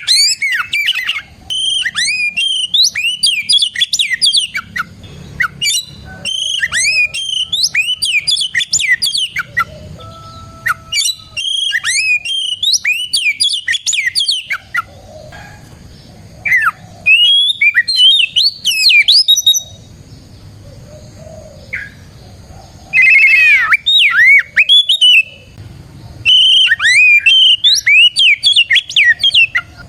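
Oriental magpie-robin singing loudly: a rapid, varied run of clear whistles and sweeping chattering notes, delivered in bursts with short pauses and a longer pause about two-thirds through.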